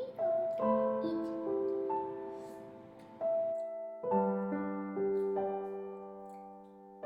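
Slow, gentle background piano music: chords and single notes struck one after another, each left to ring and fade.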